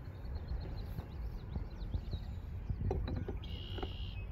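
Evening lakeside ambience: a steady low rumble of wind and water, with small birds chirping. A few sharp knocks come near three seconds in, followed by a short, even, high bird call.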